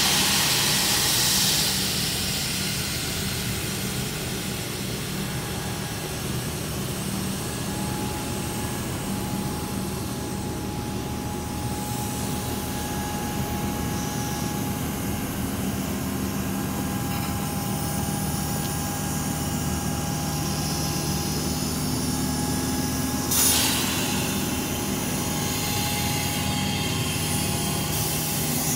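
Melbourne Metro electric suburban train running alongside with a steady low hum and a faint electric whine. A loud hiss comes in the first second or so, and a shorter one about 23 seconds in.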